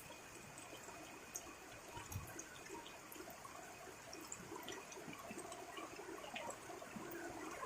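Rain falling, with many scattered drops ticking close by over a soft, steady wash of rain.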